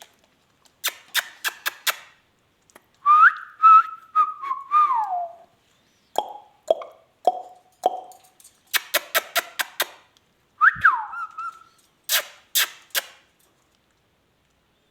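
Indian ringneck parakeets whistling: two gliding whistle phrases, each rising and falling in pitch, with bursts of sharp clicks and short chirps between them.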